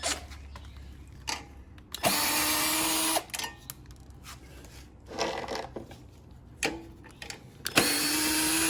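Handheld power driver running in two bursts of about a second each, about two seconds in and again near the end, with small clicks of tools and parts being handled in between.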